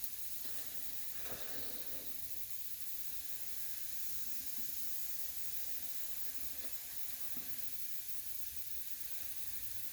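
Steady hiss of compressed air escaping from a leaking air compressor line.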